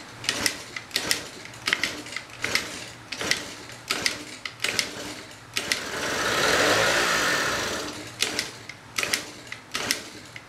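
Small Derbi scooter engine being worked to start: a run of sharp mechanical clacks about every 0.7 seconds, broken by a hiss lasting about two seconds in the middle.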